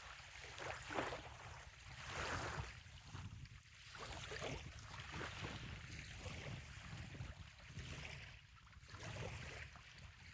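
Small bay waves lapping gently on a sandy shore, washing in irregularly every second or so, over a low steady rumble.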